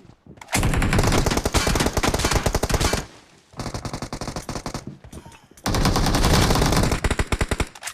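Automatic gunfire in a shooter video game: rapid shots in three long bursts, the middle one quieter.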